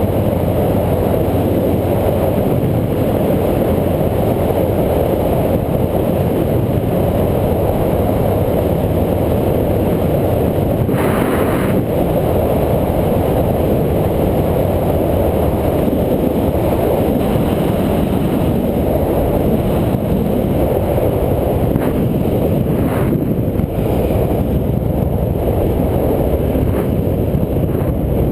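Steady rumbling wind and road noise of a bike ride, with a brief hiss about eleven seconds in.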